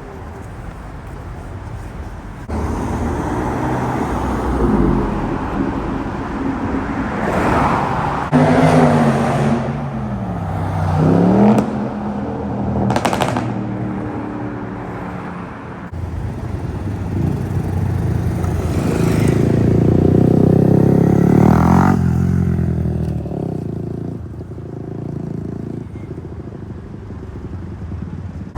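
Car engines in street traffic: one revs, its pitch dropping and then climbing, in the first half, and another engine passes loud and close about two-thirds of the way through.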